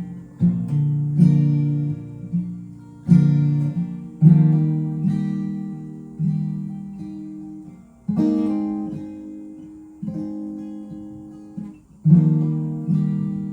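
Taylor 814ce steel-string acoustic guitar strummed in an instrumental break. Chords are struck every one to four seconds and left to ring out and fade between strokes.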